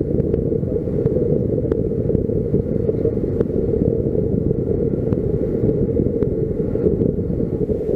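Wind rushing over the microphone during paraglider flight: a steady low rumble with a few faint clicks.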